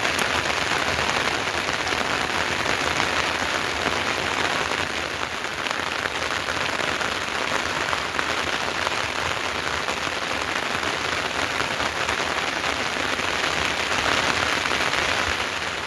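Steady rain falling on surfaces, an even hiss of many drops.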